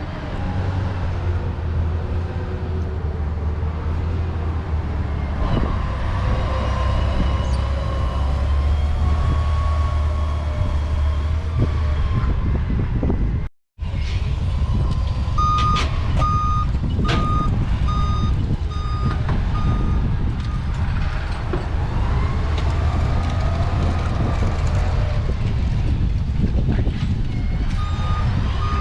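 Truck engine running with a steady low hum. After a sudden break, a vehicle's reversing alarm beeps about twice a second for several seconds, then starts again near the end.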